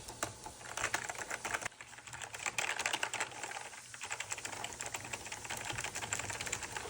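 Keys of an Apple Extended Keyboard II being typed on rapidly: a dense, steady run of mechanical key clicks, not too loud.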